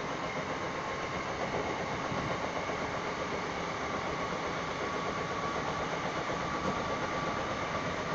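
Electric commuter train running between stations, heard from inside the carriage: a steady running noise with a faint whine that edges slightly higher in pitch.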